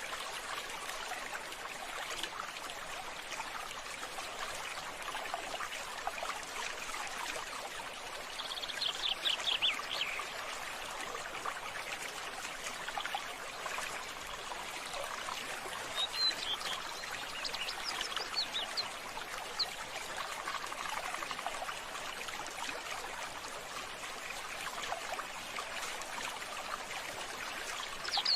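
Steady running, trickling water with birds calling over it: a quick run of falling chirps about nine seconds in, and scattered short high chirps a little past the middle.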